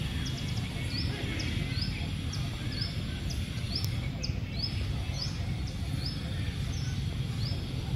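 A bird repeating short rising chirps in a steady series, over a constant low outdoor rumble.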